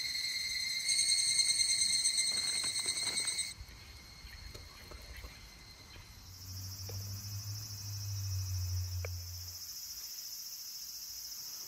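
Summer insects trilling steadily in high, even tones. The chorus changes abruptly about three and a half seconds in and again around six seconds, with a faint low hum in the middle.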